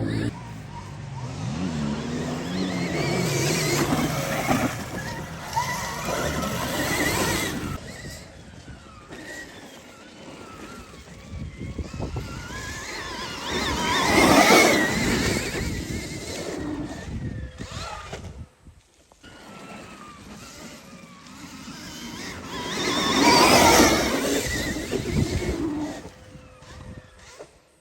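Stark Varg electric dirt bike being ridden on a dirt track: its electric motor whine glides up and down with tyre and drivetrain noise. It swells loudest three times as the bike comes and goes.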